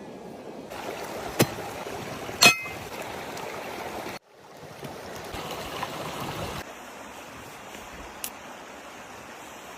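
Steady rush of running water, with a few sharp knocks over it, the loudest about two and a half seconds in with a short ringing. The sound cuts out for a moment about four seconds in and changes character again a couple of seconds later.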